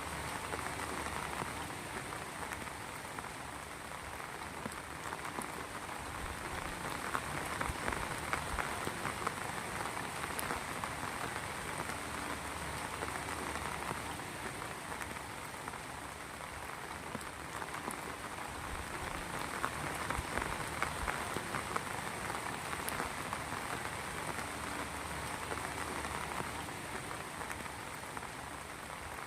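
Heavy rain falling steadily, a dense patter of drops on hard surfaces that swells slightly twice, with a faint steady high whine underneath.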